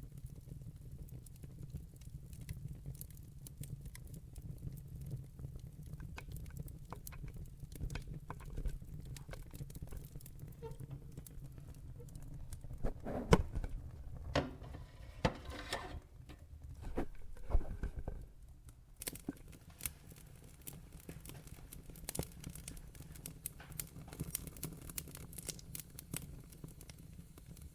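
Wood fire burning in a fireplace, crackling with frequent small pops over a low steady rumble, with a run of louder pops in the middle.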